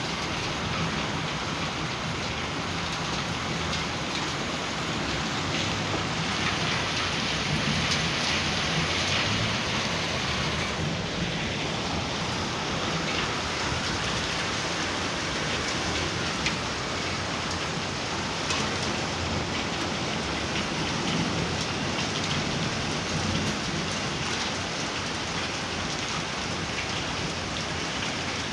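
A heavy downpour of rain mixed with marble-sized hail, a dense steady hiss full of small hits. It swells a little about a quarter of the way in.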